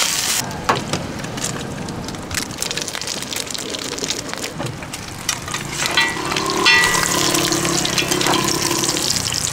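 Egg omelet frying in hot oil on a flat iron griddle, a steady sizzle, with scattered sharp metal clinks of spatula and bowls.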